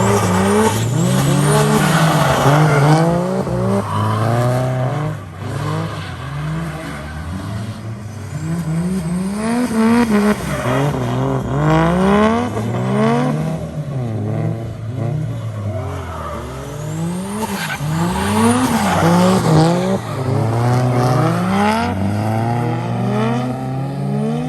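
Turbocharged drift car's engine revving up and falling back over and over during drifting, with tire squeal.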